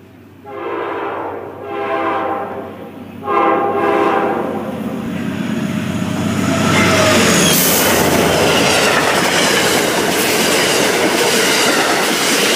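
Amtrak passenger train sounding its horn in three blasts as it approaches, the last one the loudest, then running past at speed with a loud rush of wheel and air noise and wheels clattering over the rail joints.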